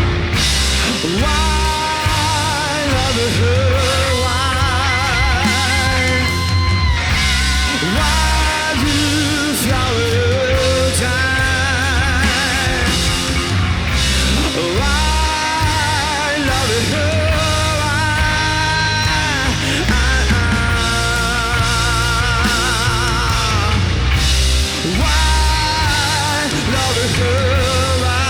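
Rock band playing: drums and bass under a lead melody of long held notes that waver and slide between pitches.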